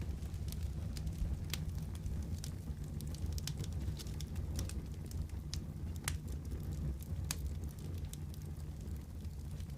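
Wood fire in a fireplace crackling: a steady low rumble of flame with irregular sharp pops and snaps, several a second.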